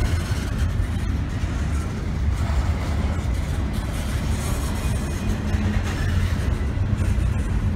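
Double-stack intermodal well cars rolling slowly past: a steady low rumble of steel wheels on rail.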